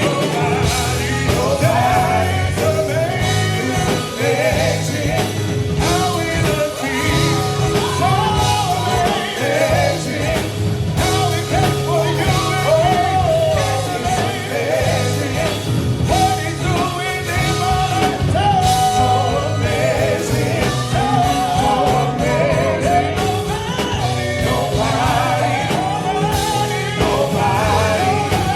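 Gospel quartet singing live with a backing band, a lead voice gliding over harmony parts and a steady low instrumental accompaniment.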